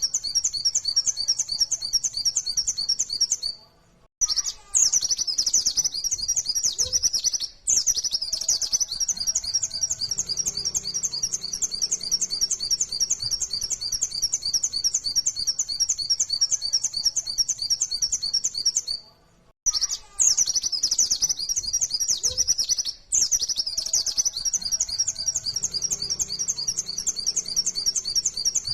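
Pleci (white-eye, Zosterops) singing a long, fast stream of high chirping notes in the rapid-fire 'nembak' style, broken by two short pauses, about four seconds in and about two-thirds of the way through.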